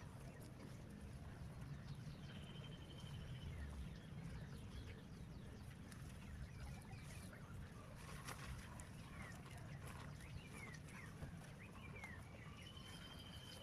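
Small birds chirping: scattered short falling chirps and two brief high trills, one early and one near the end, over a faint steady low rumble.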